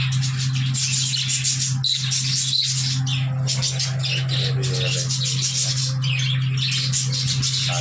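A flock of budgerigars chattering and squawking continuously with fast, high chirps. A steady low hum runs underneath.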